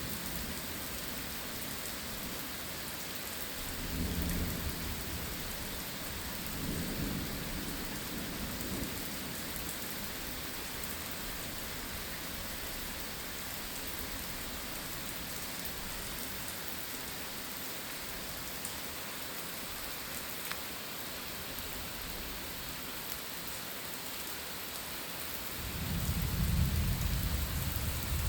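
Steady rain falling during a thunderstorm, with low thunder rumbling in a few times and the loudest roll building near the end.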